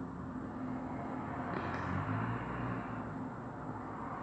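Low, steady outdoor background rumble that swells slightly about two seconds in.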